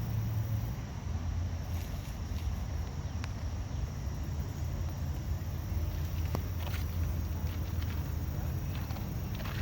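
Outdoor background: a steady low rumble with a faint steady high tone, and a few small clicks and rustles scattered through it, mostly past the middle.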